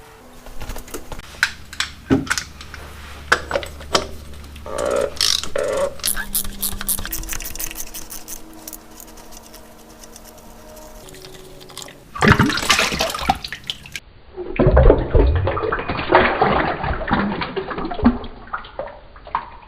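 Used engine oil running out of the sump into a drain pan, with sharp clicks and knocks from tools at the drain plug early on. The pouring becomes a loud, steady rush in the last few seconds.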